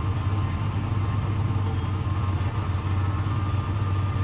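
Off-road vehicle engine idling with a steady low hum.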